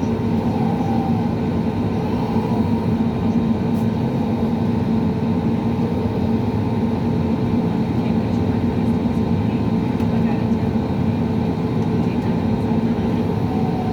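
Steady cabin noise of an Airbus A320neo on the ground before takeoff: the engines running with a constant low hum and several steady tones over the hiss of the cabin air, with no change in power.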